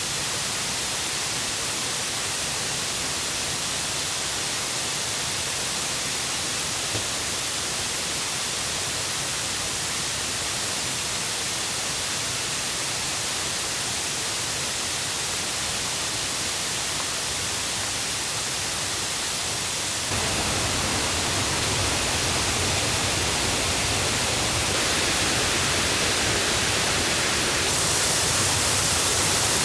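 Rushing river and waterfall, swollen by the previous day's rain: a steady, loud hiss of water that gets louder in steps about two-thirds of the way through and again near the end.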